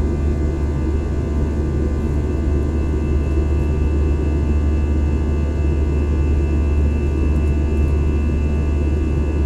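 Steady engine drone and airflow rumble inside an airliner cabin in flight: a deep, unchanging rumble with a set of steady engine hums above it.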